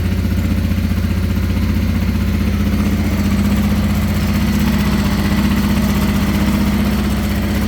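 1989 Honda Transalp 600V's V-twin engine idling steadily on full choke just after a cold start, getting a little louder about three seconds in.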